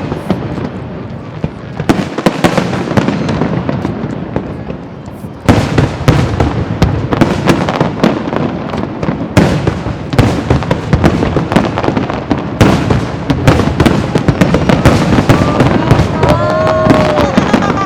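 Aerial fireworks display: a dense, continuous barrage of bangs and crackling bursts that grows suddenly louder and thicker about five and a half seconds in.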